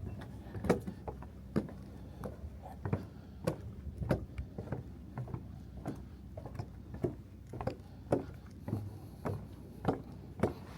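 Footsteps on a wooden boardwalk: a steady walking pace of hollow knocks, a little under two steps a second.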